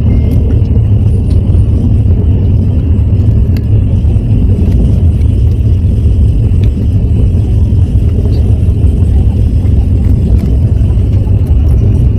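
Steady low rumble of the Vande Bharat Express electric trainset running, heard from inside the coach, with a faint hiss and a few light clicks.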